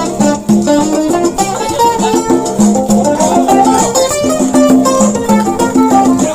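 Music led by a guitar, played as a quick run of plucked notes.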